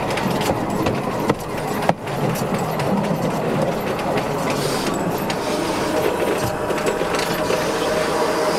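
Old passenger coaches of a museum train rolling along the track: a steady rumble of wheels on rail, with two sharp metallic clicks about a second and a half and two seconds in.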